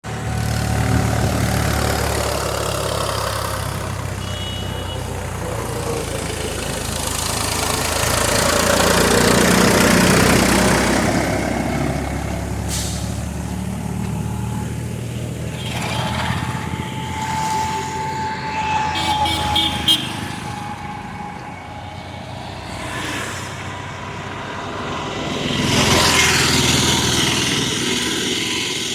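Road vehicles passing, engine and tyre noise swelling and fading twice.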